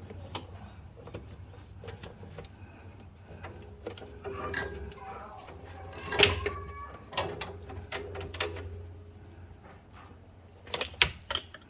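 Hands working the brake pad wear sensor wire free of its plastic fastening clips: scattered sharp clicks and snaps, loudest about six seconds in and again near the end, with a few short squeaks in between.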